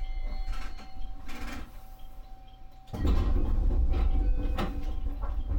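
Electric commuter train running on the line, heard from on board: a steady low rumble with scattered clicks from the wheels over the track. About three seconds in, the rumble suddenly gets louder and stays loud.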